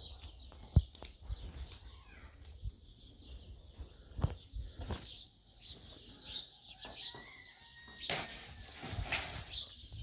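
Birds chirping steadily, with several sharp knocks, the loudest about a second in.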